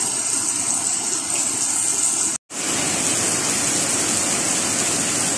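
Heavy rain falling steadily, a dense even hiss. It cuts out completely for an instant about two and a half seconds in, then comes back.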